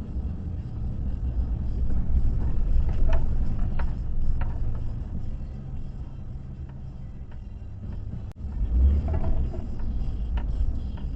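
Low, steady road rumble of a slowly moving car heard from inside the cabin, with faint music playing on the car stereo.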